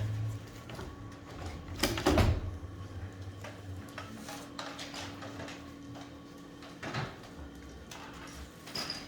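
Knocks and clicks of hard parts being handled, with a loud cluster about two seconds in and single knocks near seven seconds and near the end, over a steady faint hum.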